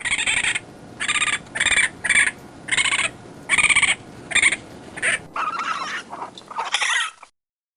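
Raccoon calls: a run of about ten short, high calls, roughly two a second, over a steady hiss, stopping shortly before the end.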